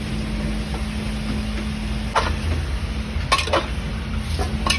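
A steady low mechanical hum, with four short clicks or scrapes: one about two seconds in, two close together past three seconds, one near the end.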